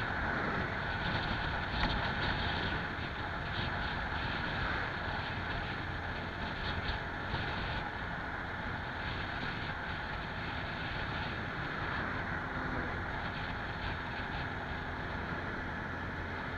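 Steady wind and road noise from riding a TVS Stryker, with no clear engine tone.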